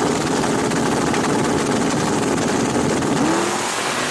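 Race truck's V8 engine running loudly and roughly, with a short rise in pitch a little past three seconds in.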